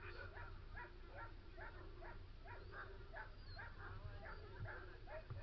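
Sled huskies yelping and barking in short calls that repeat steadily, about three a second.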